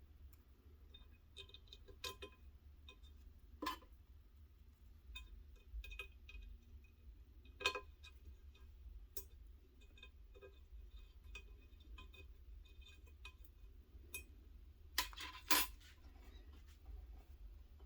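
Faint, scattered clicks and light metallic clinks of small parts and tools being handled, with a louder pair of knocks near the end, over a steady low hum.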